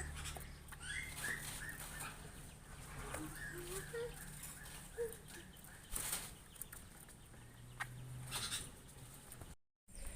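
Faint series of short bird chirps, about three a second through the first few seconds, with a few lower calls and occasional brief knocks or rustles later.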